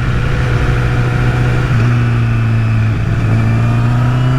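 Honda CBR1000RR Fireblade's 998 cc inline-four engine running steadily under way in first gear, its note starting to rise slowly in pitch about three seconds in as the bike accelerates, over a steady rush of riding noise.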